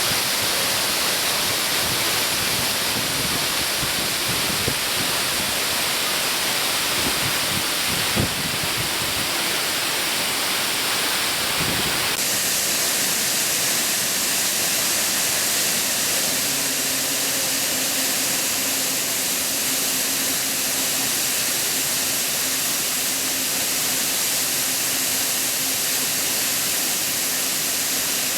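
Waterfall rushing steadily, a constant hiss of falling water whose tone shifts slightly about twelve seconds in.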